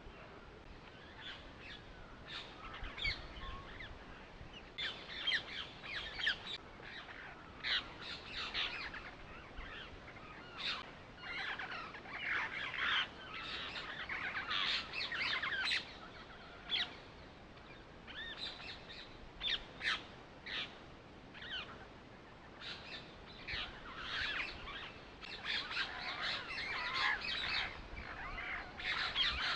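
Birds chirping: many short, high calls overlapping in irregular bursts.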